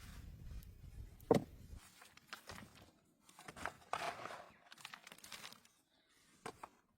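Irregular crunching and rustling noises, with one sharp knock about a second in. A low wind rumble drops away in the first two seconds.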